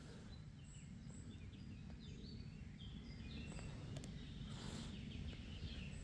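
Small birds chirping in a run of short, quick, high calls over a steady low rumble, with a brief hiss about three-quarters of the way in.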